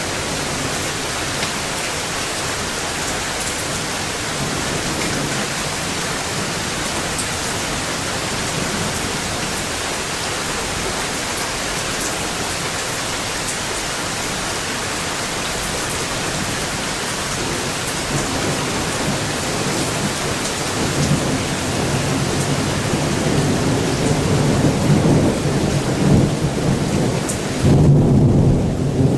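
Steady heavy rain, with a long low rumble of thunder that builds about two-thirds of the way in and grows louder toward the end.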